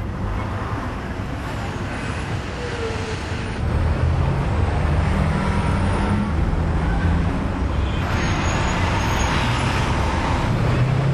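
Motor vehicle engine and road noise: a continuous low rumble with a steady hum, getting louder about four seconds in.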